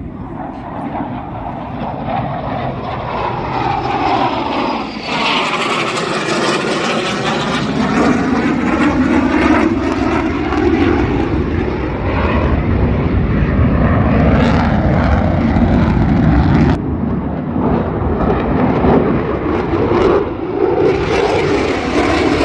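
Aircraft engine noise at an airshow, growing louder as an airplane passes low overhead, with a swooshing, phasing sweep about five seconds in. It then stays loud and steady.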